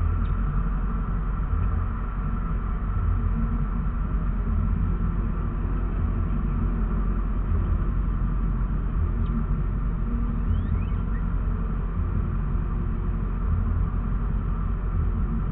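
Steady low rumble of a car idling while stopped in traffic, heard from inside the car.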